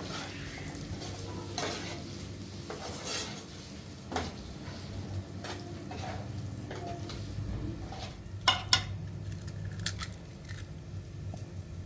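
Kitchen utensils knocking and scraping against pots and dishes, with scattered clinks and two sharp knocks close together about eight and a half seconds in, over a low steady hum.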